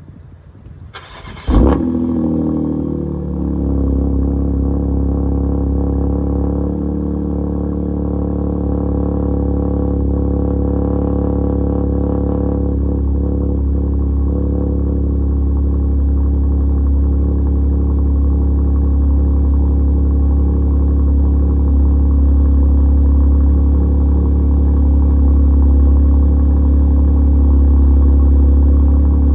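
BMW X3 M's twin-turbo inline-six cold start: the starter cranks briefly about a second and a half in, the engine catches with a flare, then settles within a couple of seconds into a steady, loud high cold idle.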